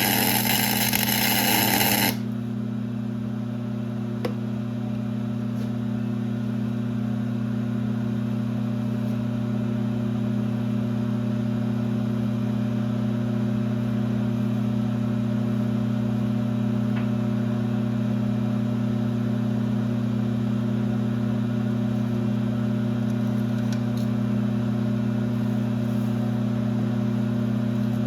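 Geared-head metal lathe running steadily with a constant low hum. A loud noisy rush lies over it and cuts off suddenly about two seconds in.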